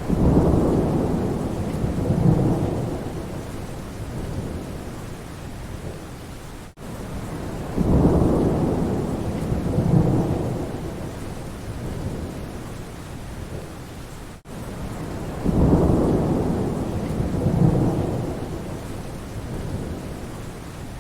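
Steady rain with deep rumbles of thunder that swell sharply three times, about eight seconds apart, and fade out slowly. The pattern repeats identically, each time just after a brief dropout in the sound: a short rain-and-thunder recording played in a loop.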